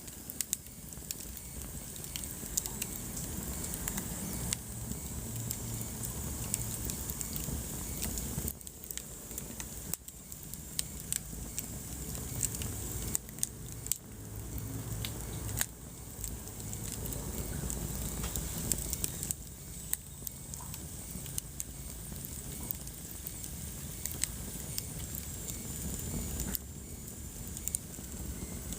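Wood fire burning in a fireplace, crackling with irregular sharp pops over a steady hiss and low rumble of the flames. A faint high whistle sounds for a few seconds in the second half.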